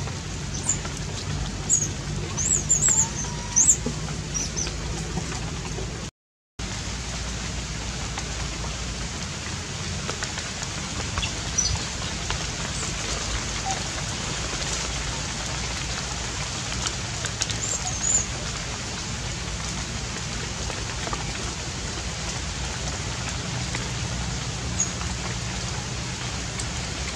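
Steady hiss of falling rain, with a few short high-pitched chirps about two to four seconds in.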